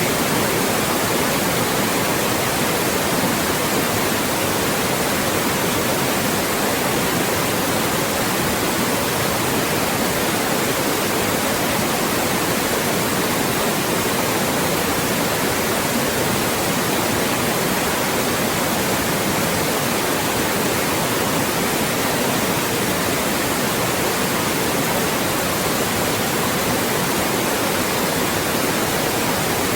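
Loud, steady synthetic white noise: an even hiss across all pitches with no change or events.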